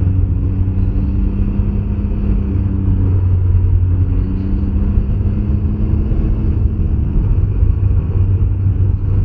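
2021 Can-Am Ryker 900's three-cylinder engine running steadily while riding, heard as a low, even rumble with road noise.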